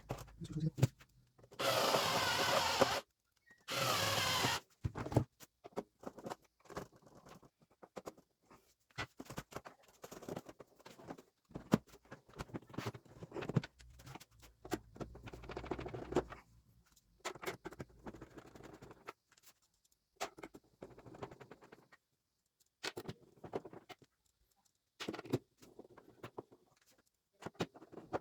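Electric screwdriver running twice briefly, about a second each, near the start, driving screws into a plastic keyboard case. Then scattered clicks and knocks of screws and plastic casing being handled.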